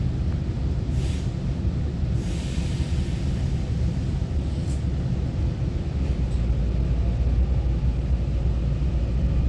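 Taiwan Railway EMU900-series electric multiple unit running between stations, heard from inside the passenger car: a steady low rumble of wheels and running gear, with two short hisses about one and two seconds in, and the rumble growing heavier about six seconds in.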